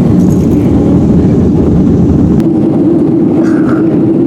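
Loud, steady rumble of jet airliner cabin noise from the engines and airflow. About two and a half seconds in there is a click, the deepest rumble drops away, and a steadier hum remains.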